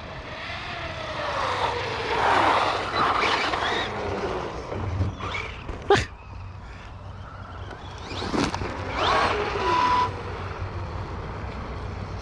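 Electric RC truck driving hard, its motor whine rising and falling as the throttle is worked, with tyres scrubbing over the ground. A single sharp knock about halfway through.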